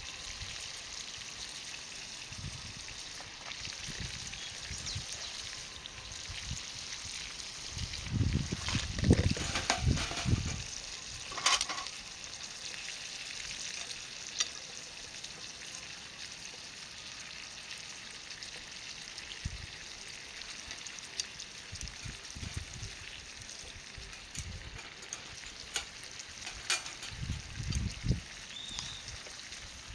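Garlic ajillo in olive oil sizzling steadily in a skillet over charcoal, with a few knocks and clinks from handling the pan and utensils about a third of the way in and again near the end.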